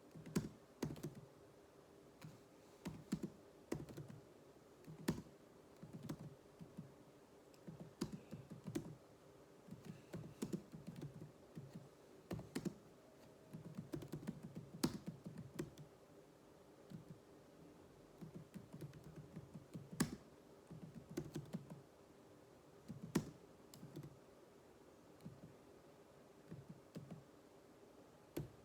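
Computer keyboard being typed on in uneven runs of keystrokes with short pauses between them, as in a typing drill.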